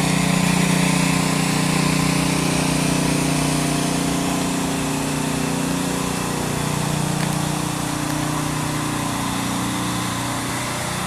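A small engine running steadily, its pitch shifting slightly about halfway through.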